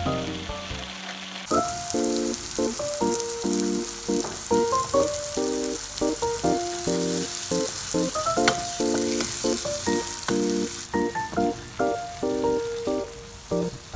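Ground spice paste sizzling as it fries in oil in a nonstick pan, stirred with a wooden spatula. The sizzling comes in suddenly about a second and a half in. Background music with a melody plays throughout.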